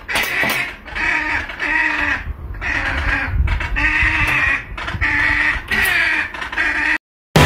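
An animal calling over and over in short pitched calls, each about half a second long, in a quick steady run. The calls cut off suddenly near the end.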